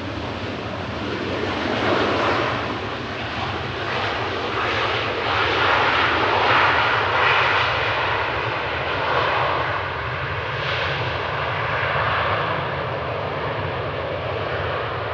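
Jet airliner passing close by: loud, continuous jet engine noise with a low rumble, building over the first couple of seconds and staying strong throughout.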